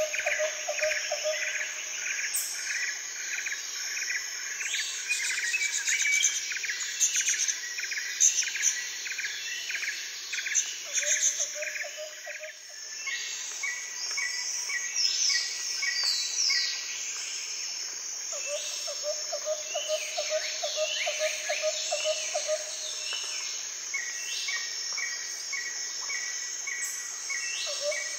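Outdoor ambience of many birds chirping, with insects trilling in repeated pulses and a steady high insect drone underneath. The mix changes briefly about halfway through.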